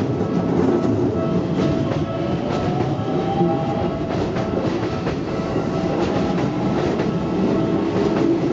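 Hokuso Railway 9100-series electric train running through a level crossing: a steady rumble with irregular clicks of wheels over rail joints and a steady tone. A faint rising whine comes in partway through.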